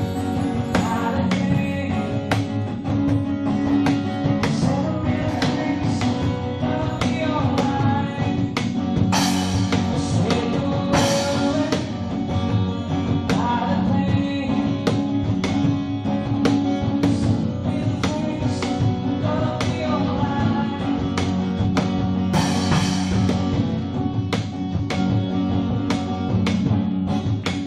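Music: a band playing with guitar and drums, with regular drum strikes.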